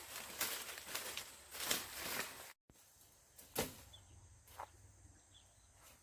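Dry rustling and crunching for about two and a half seconds, cut off abruptly; then a quieter stretch with two knocks and faint high bird-like chirps.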